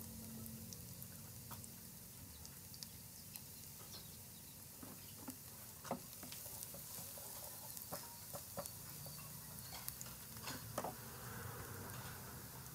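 Chopped garlic sizzling softly in oil in a non-stick wok, with a spatula stirring and scraping through it; a few sharp knocks of the spatula against the pan come in the middle and near the end.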